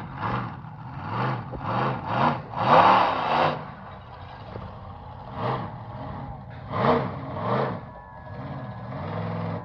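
Monster truck engine revving hard in a string of short bursts, the loudest about three seconds in, dropping back to a lower running note between bursts.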